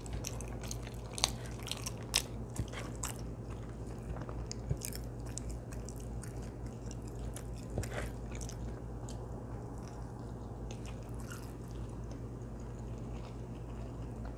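Close-up chewing of soft bell pepper casserole, with wet mouth clicks and smacks, thickest in the first half and sparser later, over a steady low hum.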